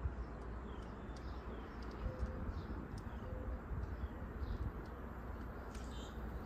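Small birds chirping faintly over a steady low rumble of outdoor background noise.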